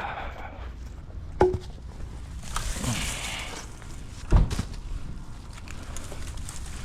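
Cut branches and brush being handled: rustling, a sharp knock with a short ring about a second and a half in, and a heavy thud a little past four seconds.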